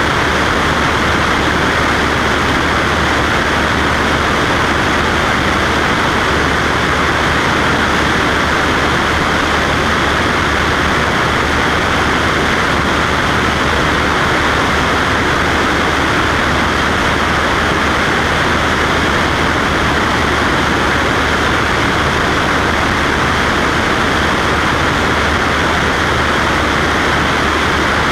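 Cessna Skywagon's six-cylinder piston engine and propeller running steadily in flight: a constant loud drone with a low hum underneath and no change in pitch.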